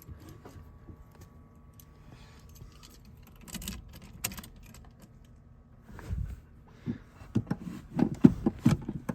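A couple of clicks, then from about seven seconds in a Ford 351 Windsor V8 is cranked over by its starter, turning in a steady rhythm of about three beats a second without catching. This is its first start attempt after a cam break-in and a valve-spring change.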